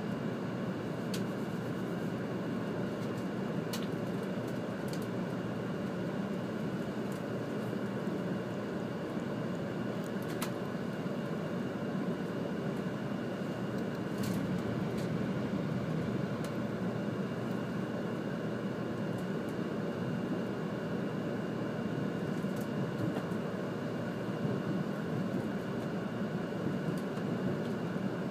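Cabin noise inside a Series 100 Shinkansen train pulling out of the station: a steady rumble of the moving train, with a faint high steady tone and a few faint clicks.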